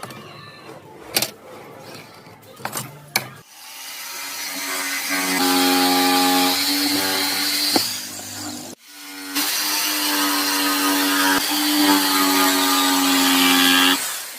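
A few light knocks, then an electric power tool's motor spins up and runs with a steady whine while working wood. It stops briefly about halfway through and runs again until near the end.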